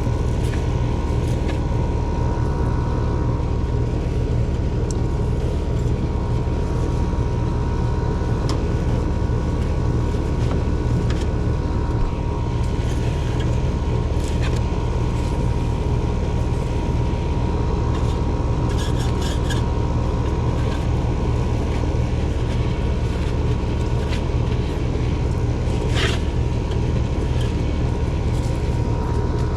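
Central air conditioner's outdoor condensing unit running: a steady hum from the compressor and condenser fan, with a few light clicks and taps.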